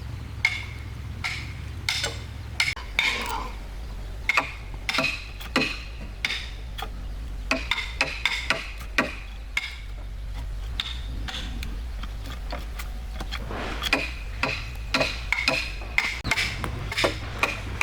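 Irregular sharp taps and knocks of tools working wood, each with a short ringing edge, over a steady low hum.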